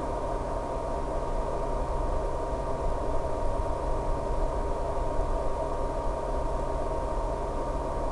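FPV drone in flight, heard from its onboard recording: a steady rush of wind over a constant, even motor whine.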